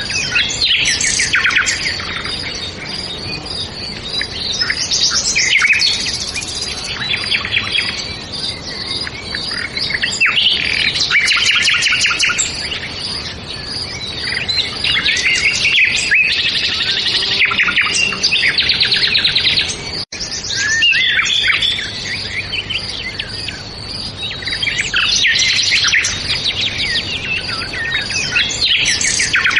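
Several songbirds singing at once: a dense, overlapping chorus of quick chirps and trills, with a brief dropout about twenty seconds in.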